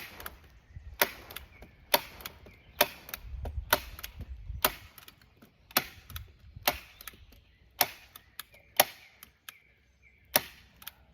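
A staple gun firing staples through plastic sheeting into a wooden frame: a sharp snap about once a second, a dozen or so in all, with rustling of the plastic between them.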